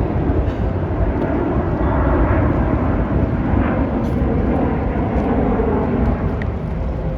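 Jet engines of Snowbirds CT-114 Tutor aircraft flying over, a loud, steady rumble and rush.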